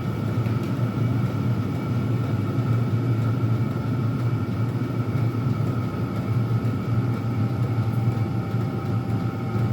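Three Chinese diesel air heaters running at full power without their air silencers, making a steady hum of blower fans and burners with a few steady higher tones over it.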